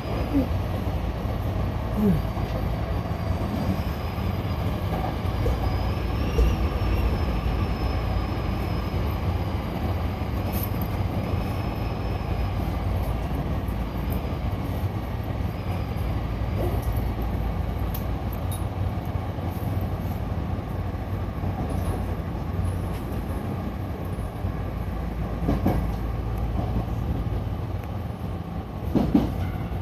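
Hankyu electric local train running between stations, heard inside the car: a steady rumble of wheels on rails. A faint, wavering high whine runs through the first half, and there are a few knocks late on.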